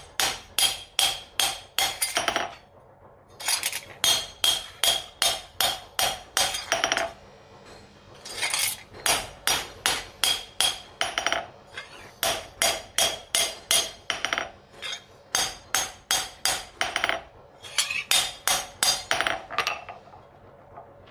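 Hammer blows ringing on steel, at about three or four strikes a second, in runs of a few seconds with short pauses between: a blade being forged on an anvil.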